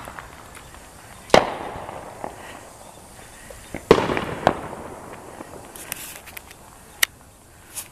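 Aerial fireworks bursting: two loud bangs about two and a half seconds apart, each trailing off in a rolling echo. A few faint crackles follow, then a sharp crack and one more near the end.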